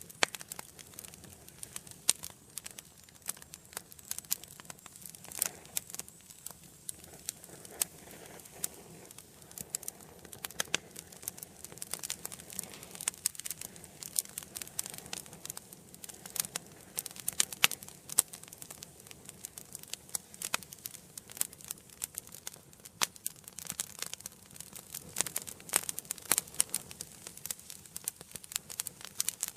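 Wood fire burning in an indoor fireplace, crackling and popping irregularly, with many sharp pops of varying loudness over a soft low rumble of the flames.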